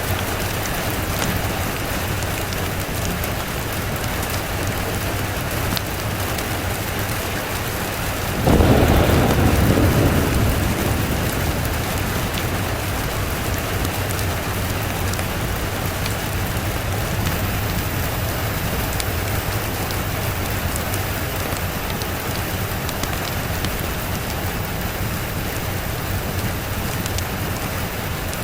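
Steady rain falling, with a single sudden thunder clap about a third of the way in that rumbles and fades over a couple of seconds.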